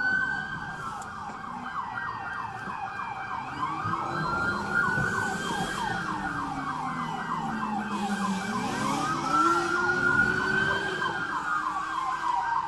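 Police car sirens during a pursuit: a fast yelp warbling continuously, with a slower wail rising and falling over it twice.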